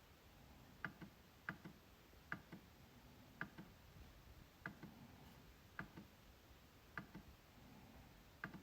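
MacBook trackpad being clicked, about eight quiet clicks at an uneven pace of roughly one a second. Each press is followed closely by a softer tick as it is released.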